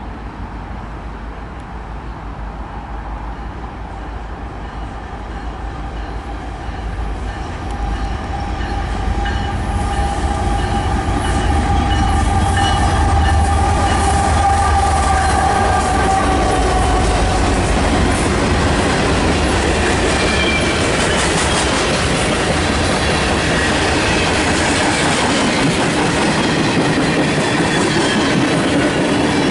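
Metra commuter train approaching and running past on the BNSF line, getting louder over the first ten seconds or so and then staying loud, with wheels clicking over the rail joints. A drawn-out tone sags slightly in pitch through the middle.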